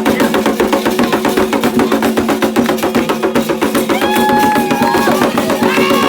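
Candomblé ritual drumming: fast, dense beating on hand drums (atabaques) with a bell or wood-block pattern. Voices come in with a held sung line about four seconds in.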